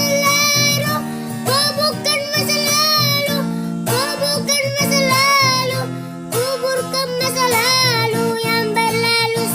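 Music: a high, child-like voice singing a wavering melody over plucked acoustic guitar.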